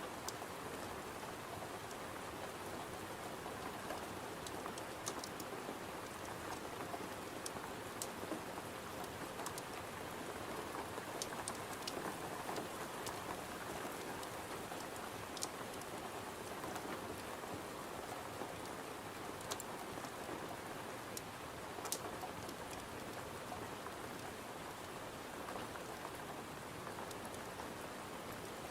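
Steady rain pattering against a window, with a scattering of faint sharp ticks.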